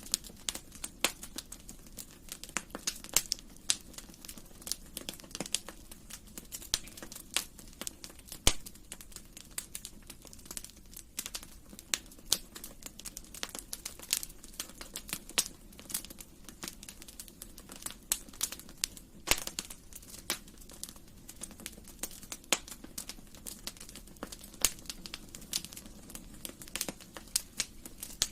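Wood fire burning in a fireplace: a steady low hiss with many sharp, irregular crackles and pops, a few of them louder snaps.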